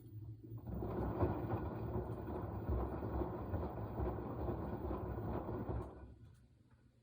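Washing machine drum turning in the wash cycle: a steady low rumble with sloshing noise starts about half a second in, runs for about five seconds, then fades out as the drum stops.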